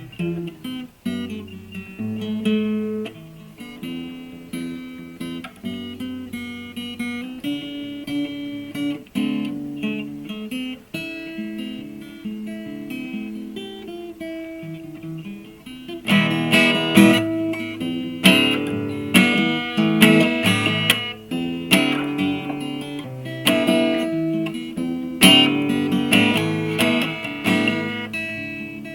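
Solo acoustic guitar played fingerstyle, with melody and bass picked together. About halfway through it gets louder and fuller, with strummed chords.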